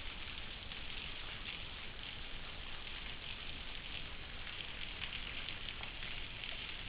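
Waterfall splashing: a steady, even rush of falling water.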